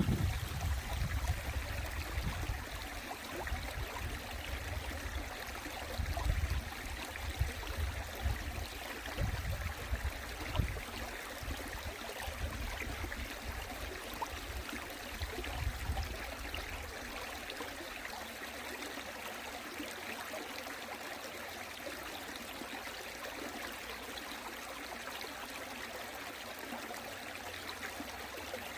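Mountain stream water flowing and babbling steadily. Gusts of wind rumble on the microphone during the first half and die away after about sixteen seconds.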